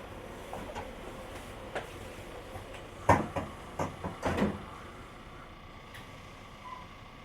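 Running noise of a JR Kyushu 885 series limited express EMU (Hitachi-equipped motor car) heard from the car's deck: a steady rolling rumble with scattered clicks. About three seconds in comes a short run of loud clattering knocks lasting a second and a half, after which the running noise eases slightly.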